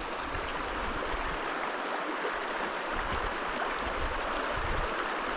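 Fast-flowing mountain stream rushing over rocks: a steady, even rush of water.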